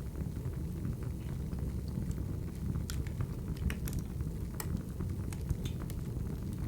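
Wood fire crackling: a steady low rumble with scattered, irregular sharp pops and snaps.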